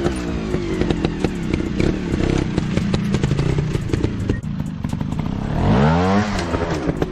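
Motorcycle engine running, its revs dropping at the start and climbing sharply again about six seconds in before falling back, with constant clattering and ticking throughout.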